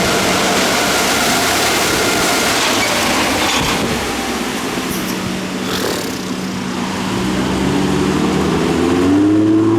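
Car wash air dryers blowing loudly, easing off after about four seconds. Near the end a car engine comes up with a rising tone as it speeds up.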